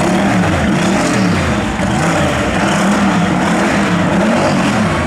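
Twin-turbo burnout car's engine held at high revs, its pitch rising and falling every second or so as the driver works the throttle during a burnout, with a steady rushing noise over it.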